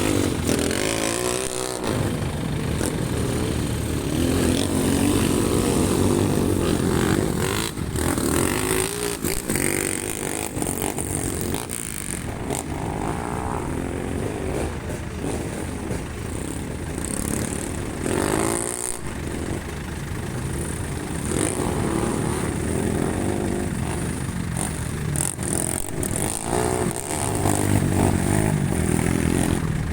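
Racing motorcycle engines running hard and revving, with bikes passing several times as the engine pitch sweeps up and down.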